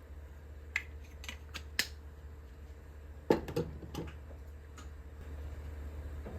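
Kitchenware being handled: a few light clicks and taps, then a louder knock a little past the middle followed by smaller taps, over a steady low hum.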